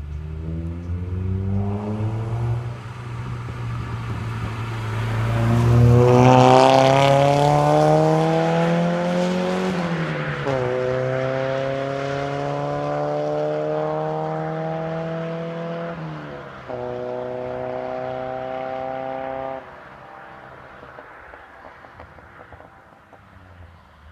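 1990 Mitsubishi Lancer's exhaust as the car accelerates hard through the gears, the engine note climbing in pitch, with upshifts about ten and sixteen seconds in. Near the end the throttle is lifted and the sound drops away and fades.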